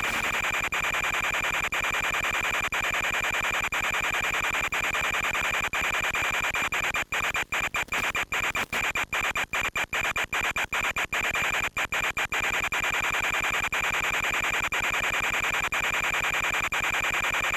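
Steady electronic hiss and buzz with a few fixed whining tones, the static of an FPV recording. Between about 7 and 12 seconds in, it cuts out briefly many times.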